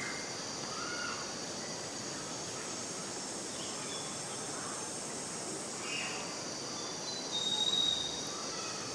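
Steady high-pitched insect drone, with a few faint short chirps and a thin high whistled note near the end.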